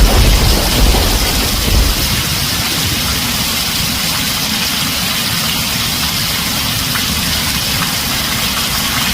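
Heavy rain on a tin roof, a steady dense hiss. A deep rumble of thunder dies away over the first two seconds.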